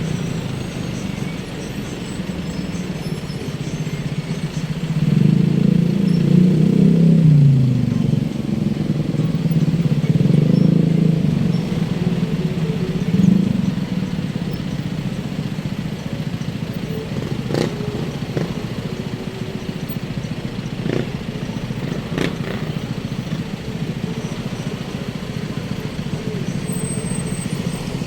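Road traffic: vehicle engines, motorcycles among them, running steadily, with vehicles passing close and growing louder twice in the first dozen seconds, one engine's pitch falling as it goes by. A few short clicks or knocks come later on.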